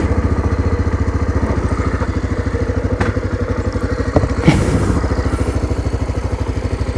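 Motorcycle engine idling with an even, quick pulse, with a brief hiss about four and a half seconds in.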